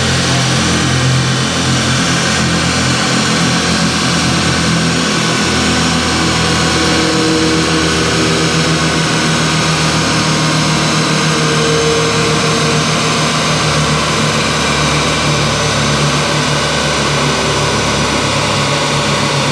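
Honda K20 four-cylinder engine, fitted with a header and K&N air filter, running at a steady speed with no revving. A loud, steady rushing noise runs underneath it.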